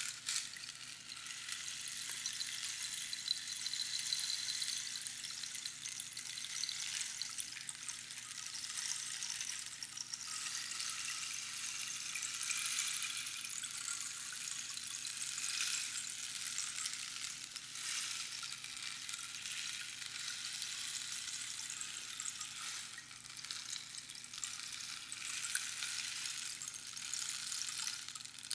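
Rainstick: the small fill inside a hollow cactus tube trickles down past the pins, making a continuous rain-like hiss that swells and eases. There is a brief lull just after the start.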